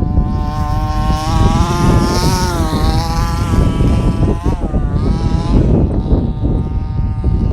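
Traxxas Slash RC short-course truck's motor whining, rising and falling in pitch as the truck speeds up and slows, over a steady low rumble.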